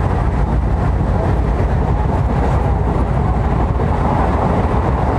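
Steady rumble of an EMU local train running between stations, heard from inside the coach.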